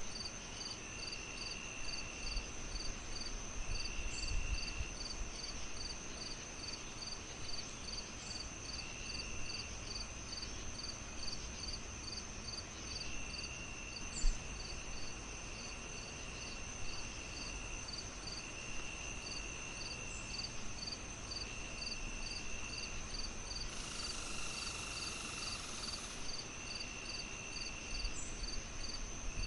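Crickets chirping in a steady rhythm of about two chirps a second, layered with a continuous high insect drone and longer trills that start and stop. Underneath is a soft low crackling fire, with one sharper pop about halfway through.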